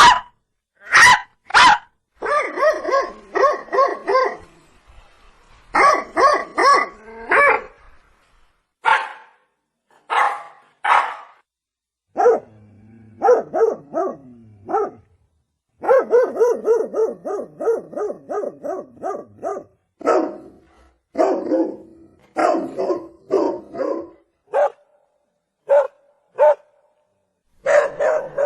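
Domestic dog barking again and again in clusters of short barks, with a quick run of about three to four barks a second in the middle.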